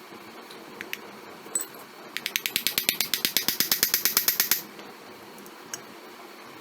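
A rapid, even run of sharp mechanical clicks, about nine a second, like a ratchet or pawl mechanism being worked. It starts about two seconds in and stops after a little over two seconds.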